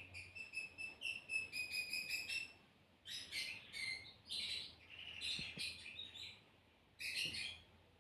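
Small birds chirping: a quick, even series of short chirps in the first two seconds or so, then several busier bursts of chirping with short gaps between them.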